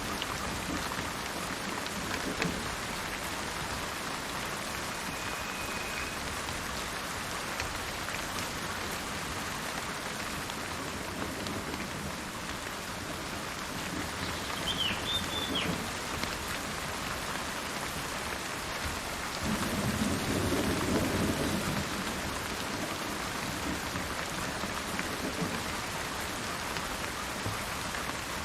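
Steady rain with low rumbles of thunder, the largest swelling up about two-thirds of the way in. A bird gives a short high call twice, faint under the rain.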